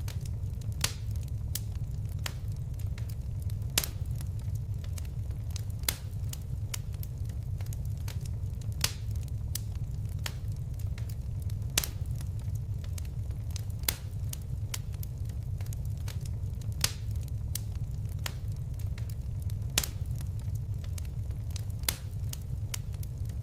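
Fireplace fire crackling, with sharp pops every second or two over a steady low rumble of the flames.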